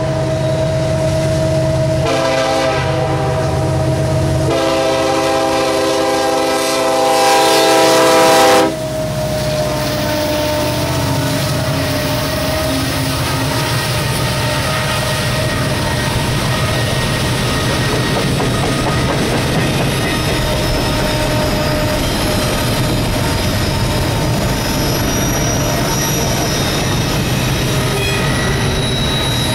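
Horn of an approaching EMD SD70ACe diesel locomotive, sounded in three blasts with brief gaps. The last blast is the longest and loudest and cuts off about nine seconds in as the locomotive passes. After that comes the steady rumble and clatter of double-stack container well cars rolling by on the rails, with faint high wheel squeal near the end.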